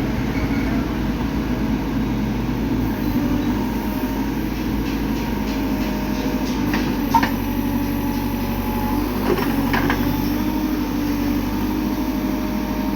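An engine running steadily at a constant pitch, with a sharp knock about seven seconds in and a few more short knocks a couple of seconds later.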